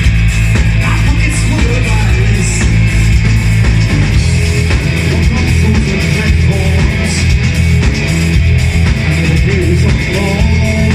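A rock band playing loud live music, with electric guitar, a steady bass line and a singing voice.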